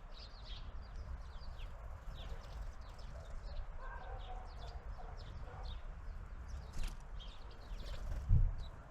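Small birds at a garden feeder giving short, high chirping calls again and again, with a low thump near the end.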